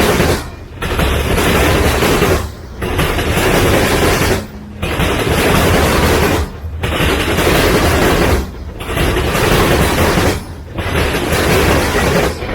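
Freight train cars rolling past close by: a loud, heavy rumble that drops away briefly about every two seconds as each car goes by.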